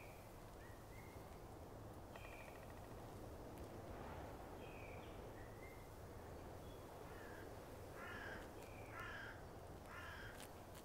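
Faint outdoor birdsong: short high chirps, then three harsh caws about a second apart near the end, over a steady low background hum.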